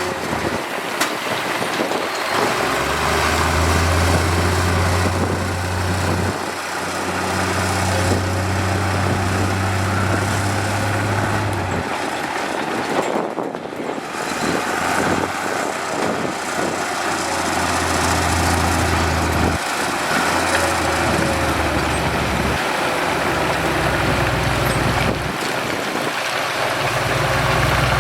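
Heavy diesel construction machinery running. A steady low engine drone comes and goes several times over a constant noisy rumble.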